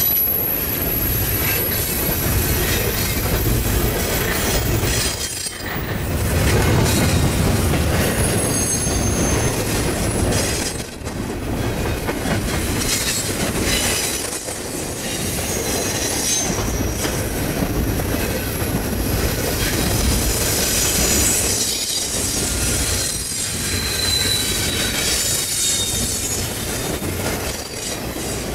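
Freight train rolling past with a steady rumble, its steel wheels squealing in thin high tones that come and go.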